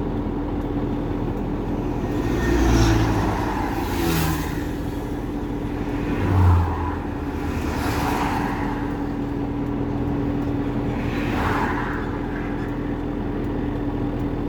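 Scania 143's V8 diesel engine running steadily under a truck ride, with two louder low swells about 3 and 6.5 seconds in. Several brief whooshes come from vehicles passing.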